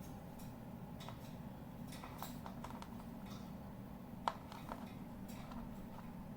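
Faint scattered clicks and small taps from a cockatiel moving about, with one sharper click about four seconds in, over a low steady hum.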